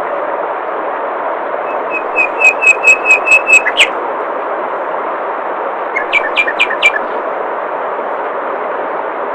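Steady rush of flowing water with a songbird calling over it: a quick run of about ten repeated chirps from about two seconds in, then a shorter run of five around six seconds in.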